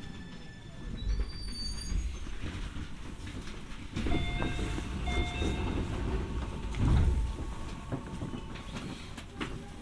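Keio 1000-series electric train running, heard from inside the car: a steady running rumble with wheels clicking and knocking over the rails. Thin inverter and motor tones sound in the first two seconds, and brief wheel squeal comes in around four to six seconds in.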